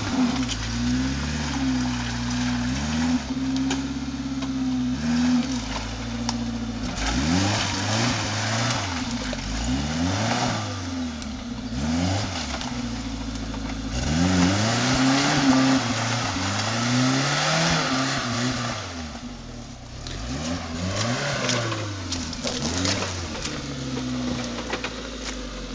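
Suzuki Samurai off-roader's engine revving up and down again and again as it claws up a muddy, rutted track, its pitch rising and falling with each push on the throttle.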